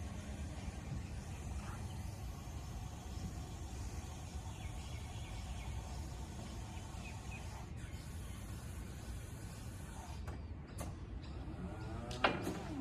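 Steady low machine hum with a faint whine that stops about two-thirds of the way through, then a short, sharp sound near the end.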